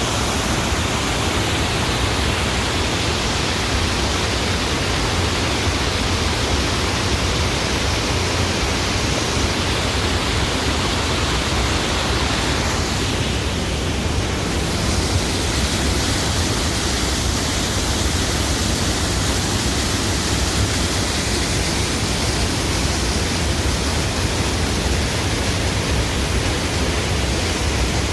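Steady, loud rush of falling or flowing water, such as a waterfall or mountain torrent; the high hiss thins briefly about halfway through.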